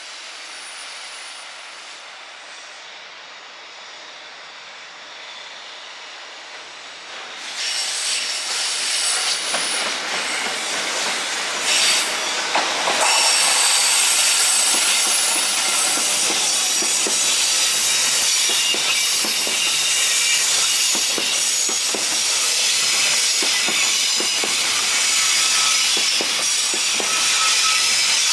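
Long container freight train hauled by a JR Freight EF66 electric locomotive passing close by. The sound stays quieter for about seven seconds and then jumps up as the train arrives; from there on it is steady rolling noise with wheels clacking over rail joints and a thin, high-pitched wheel squeal.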